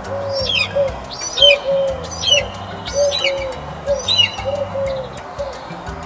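Bird calls: a series of short high calls, each falling in pitch, about one a second, with a run of short low notes beneath them and soft background music throughout.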